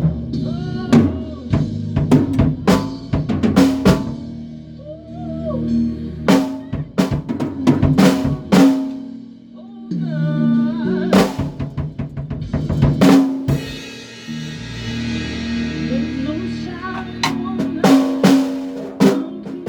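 A band rehearsing a song: a drum kit keeps up steady hits over a bass line of sustained low notes, with other pitched instruments playing above.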